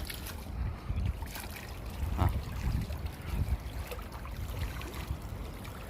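Wind rumbling on the microphone over sea water sloshing and trickling at the shore.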